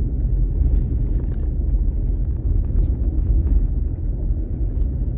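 Truck driving slowly on a dirt road, heard from inside the cab: a steady low rumble of engine and tyres, with a few light ticks scattered through it.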